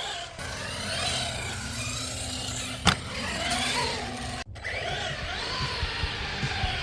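Brushless electric motor of an Arrma Granite RC truck whining, its pitch rising and falling with the throttle, with one sharp knock about three seconds in. The sound cuts out for a moment after about four and a half seconds.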